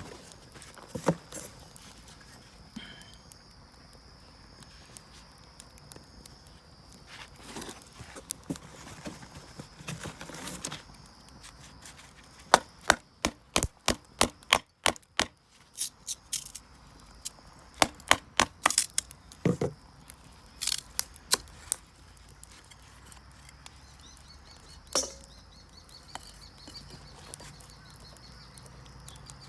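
Dry firewood snapping and knocking: a string of sharp wooden cracks, scattered at first and then coming in quick runs about halfway through, for a campfire.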